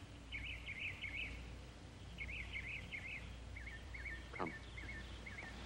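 Songbird singing in the garden: two quick warbling phrases, then a run of short repeated chirps, with one falling whistle about halfway through, all over a low steady hum.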